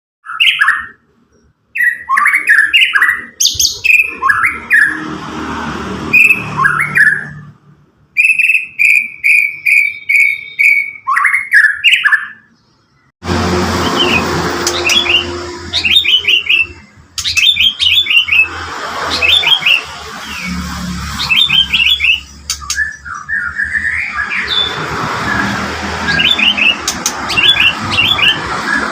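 White-rumped shama singing loud, varied whistled phrases, with a run of even repeated notes about eight seconds in. From about thirteen seconds in, a steady low hum and background noise sit under the song.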